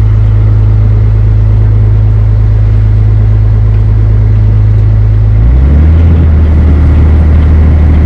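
The barge's inboard engine running with a loud, steady low hum; about five and a half seconds in, its note shifts lower and gets slightly louder.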